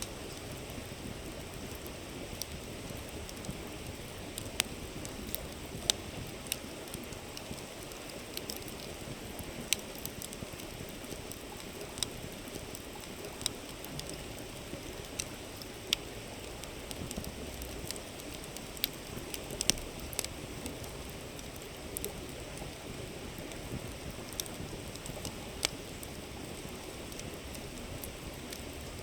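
A campfire crackling, with sharp irregular pops every second or two, over the steady rushing murmur of a flowing river.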